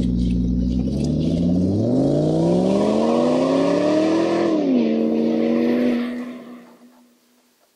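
Motor running steady and low, then speeding up in a smooth rising whine, dropping back slightly and holding, before it shuts off and fades out about six seconds in.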